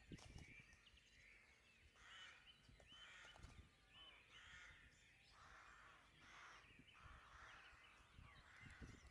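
A crow cawing faintly in a series of short, harsh calls, about one a second.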